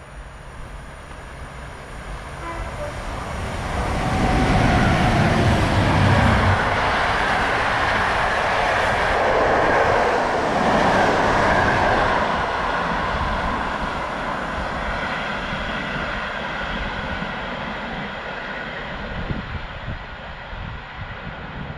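Locomotive-hauled intercity passenger train passing through a station: the rumble builds as the locomotive goes by about four seconds in, the coaches follow for several seconds, and the sound slowly fades away.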